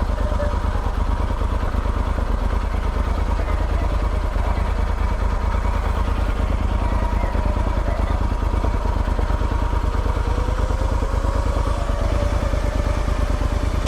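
Motorcycle engine running steadily, with a heavy low rumble and a fine, even pulsing. A faint tone rises in pitch about ten seconds in.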